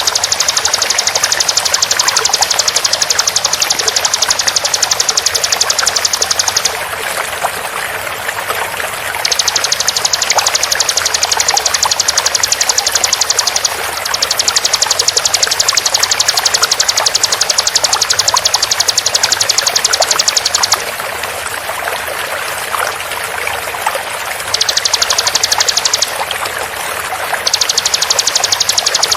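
Bar-winged prinia (ciblek) giving very fast, dense rattling trills, high-pitched and machine-even, in several long runs of a few seconds each with short pauses between, over the steady sound of running water.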